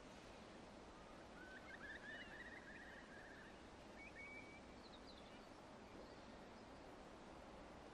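Near-silent background hiss with faint bird calls: a short rapid trill about a second and a half in, then a couple of brief chirps around the middle.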